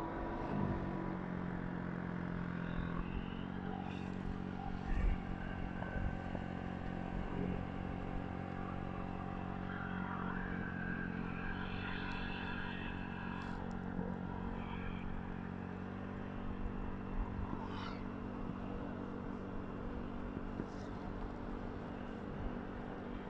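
Motorcycle engine running at a steady, even pitch while riding.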